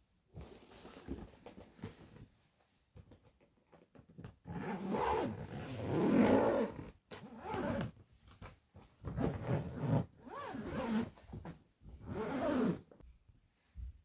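A luggage zipper being pulled open or shut in several rasping strokes, each about a second long, its pitch shifting with the speed of the pull.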